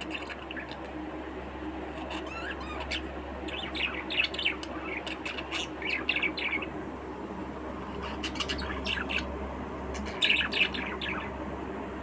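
Budgerigars chirping and chattering in short bursts of quick, high, warbling calls, with a steady low hum beneath.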